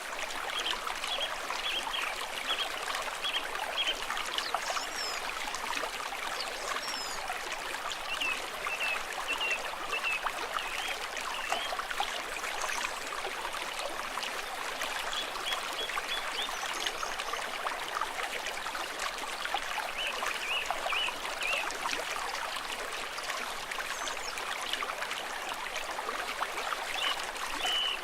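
Stream trickling and babbling steadily, with short clusters of high chirping notes every few seconds.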